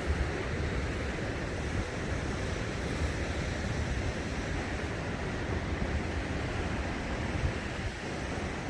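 Ocean surf washing steadily, with wind buffeting the microphone in a gusty low rumble.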